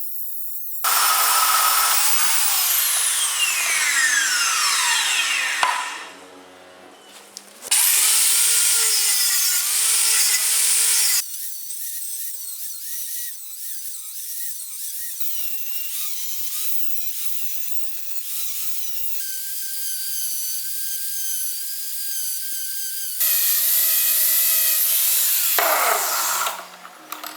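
Power tool working metal in three loud bursts with quieter running between. Its pitch falls away as it winds down just before the first burst ends and again near the end.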